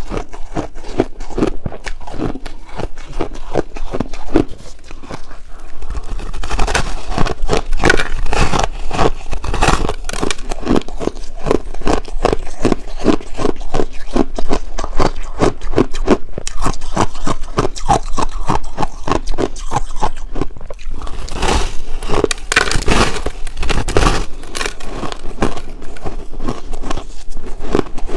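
Close-miked crunching of chunks of purple ice being bitten and chewed: a dense, continuous run of crisp cracks and crunches, louder in two stretches, about a quarter of the way in and again past the two-thirds mark.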